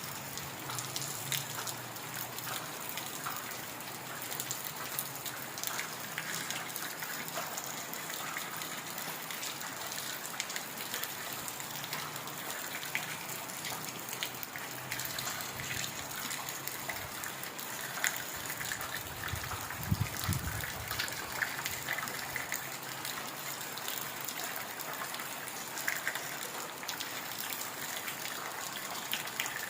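Heavy rain falling steadily, with many separate drops striking close by. A brief low rumble rises and fades about two-thirds of the way through.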